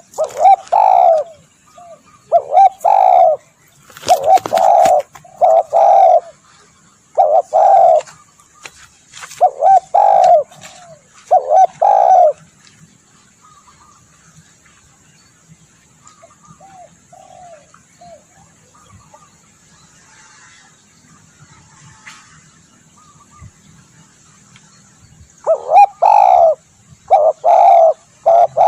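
Spotted dove cooing in repeated phrases of short, low coos. One run of calls fills the first twelve seconds, a quiet stretch with only faint notes follows, and another run starts near the end.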